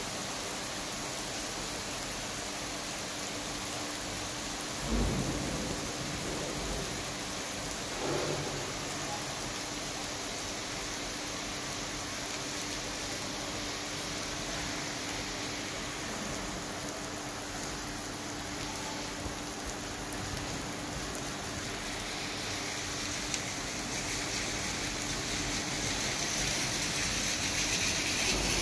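Steady rain hissing and pattering on a wet asphalt road, with two short low rumbles about five and eight seconds in; the hiss grows louder near the end.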